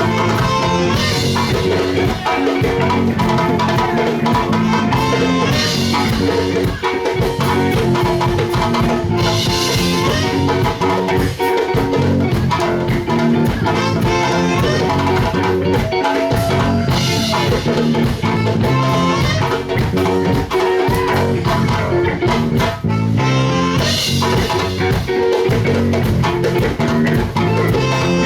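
Live band music with drum kit and guitar, loud and steady, with bright bursts in the highs every few seconds.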